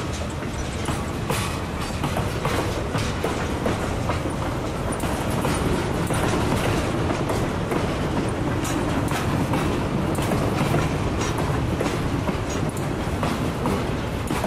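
Freight train boxcars rolling past close by: a steady rumble of steel wheels on rail, with irregular clicking and clacking over the rail joints.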